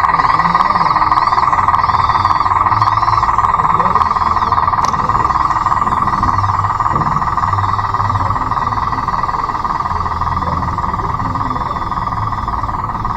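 Remote-control Bruder D5 bulldozer's electric drive motors and gearboxes running with a steady whine, with low rumbles coming and going.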